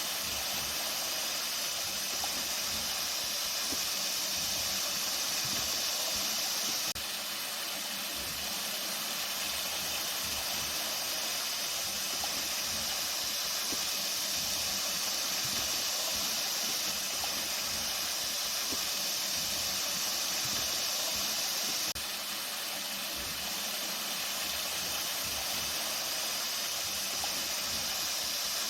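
Flowing water running steadily, an even rushing hiss with no let-up; the level drops slightly about seven seconds in and again about 22 seconds in.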